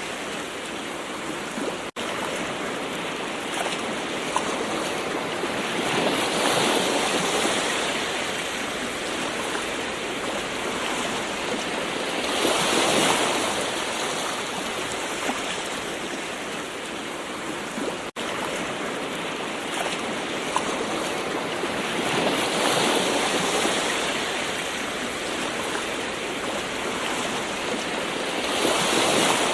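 Gentle ocean waves: a steady rush of surf that swells as a wave washes in every six to ten seconds. The sound cuts out for an instant twice.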